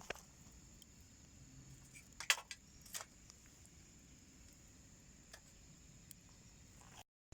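Firewood crackling as it burns in a small homemade wood stove: scattered sharp pops, with a loud cluster a little over two seconds in and another about a second later.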